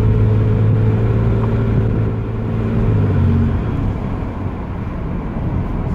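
1994 Chevrolet Camaro's engine and exhaust droning at a steady pitch while driving. A little over halfway through the engine note drops away, leaving road rumble.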